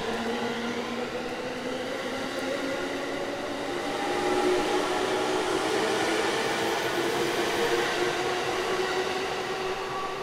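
Electric commuter train running past and away along the track: a hum of several steady motor tones over rolling wheel-on-rail noise, swelling about halfway through.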